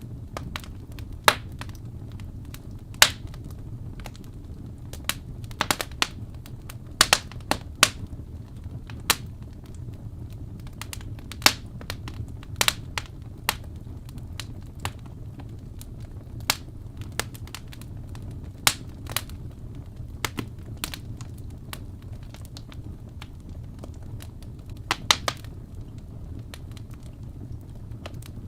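Wood fire burning in a fireplace: irregular sharp crackles and pops over a steady low rumble of the flames, with busier clusters of pops early on and sparser ones later, and a quick double pop near the end.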